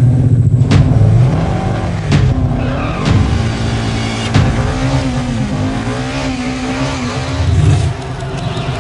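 Race car engine running hard and revving, its pitch rising and falling, with several abrupt breaks in the sound.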